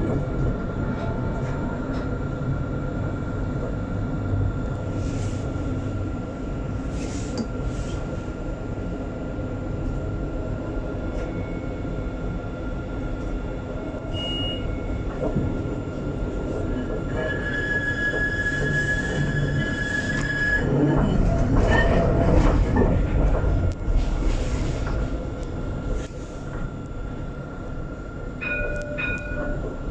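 Alstom Citadis 402 tram running on its track: a steady rolling rumble with a constant thin whine. About two-thirds of the way through there is a few seconds of high wheel squeal, followed by a louder stretch of rumble.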